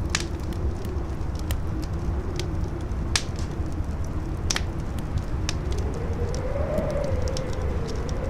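Campfire crackling with scattered sharp pops, over a low steady rumble of strong wind that howls in a wavering tone rising in pitch during the second half.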